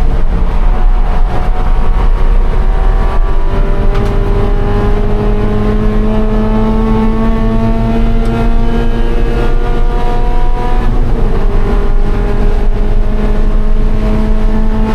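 Scion FR-S's 2.0-litre flat-four engine accelerating, its pitch climbing slowly for about eleven seconds, then dropping at an upshift and climbing again, over heavy road and wind noise.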